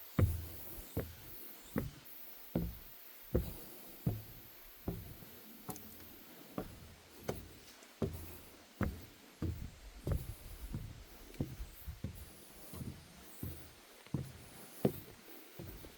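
Footsteps on a wooden deck boardwalk, an even walking pace of about one dull thump every three-quarters of a second.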